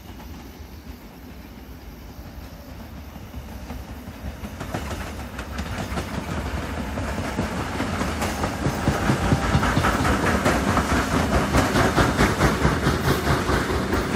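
Korail commuter electric multiple-unit train approaching and passing close by, growing louder, with quick repeated wheel clacks over the rails.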